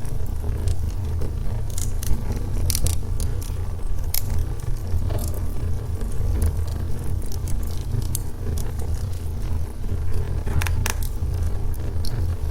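Wood fire in a fireplace crackling: irregular small pops and snaps over a steady low rumble of the burning logs, with a few sharper pops, one near the end.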